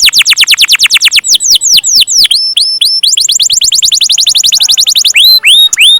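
Canary singing loud long rolls: rapid trills of repeated downward-sweeping whistled notes, about ten a second, broken near the middle by a few slower sweeping notes and, near the end, by rising whistles.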